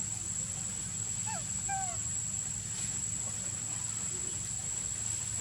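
Outdoor ambience: a steady high-pitched insect whine over a low rumble, with two short squeaky animal calls about a second and a half in.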